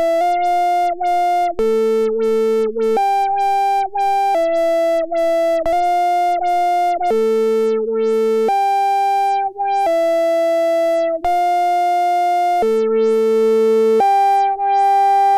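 Arturia Brute-series analog synthesizers playing a stepped sequence of sustained notes, each lasting about a second. Two or three pitches sound together, with short gaps between the notes.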